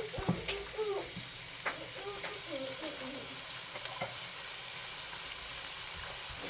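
Food frying in a pan with a steady sizzle, and a few sharp clicks like a utensil stirring against the pan in the first few seconds.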